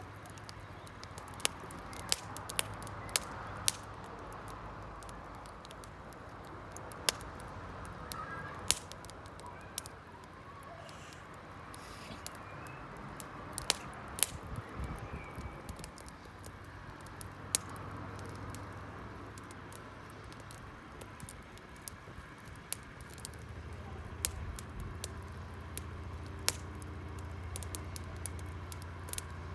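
Wood campfire crackling, with irregular sharp pops and snaps over a faint hiss of burning. A low steady rumble comes in near the end.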